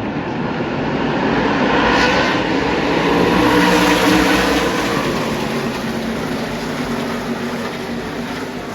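NASCAR Camping World Truck Series race trucks' V8 engines at speed, passing by on the track: the sound swells to its loudest about four seconds in, then slowly fades as they move away.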